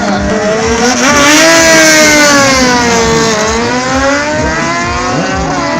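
Drag-racing sportbike engine at high revs: the note jumps up about a second in, falls slowly in pitch for a couple of seconds, then rises again.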